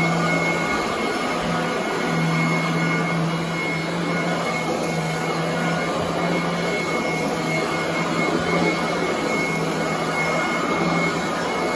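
Royal commercial upright vacuum cleaner running steadily over carpet, its motor giving a continuous hum with a high whine on top.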